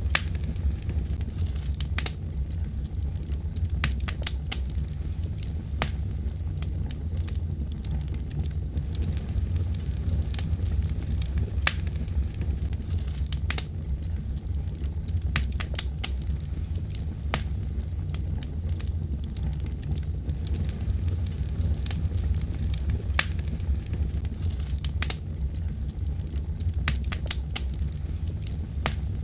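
Wood fire burning, with a steady low rumble of the flames and frequent sharp, irregular crackles and pops.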